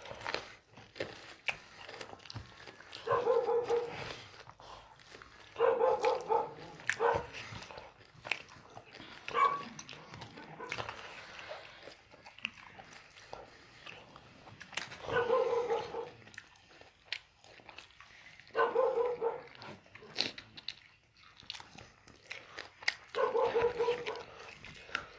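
A dog eating, with chewing and crunching clicks and a short pitched dog vocal sound repeating every two to three seconds.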